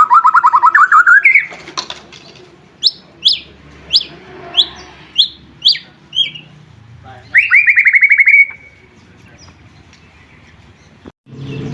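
White-rumped shama (murai batu) singing: a fast rising trill, then a string of about seven sharp, down-slurred whistles, then another fast trill.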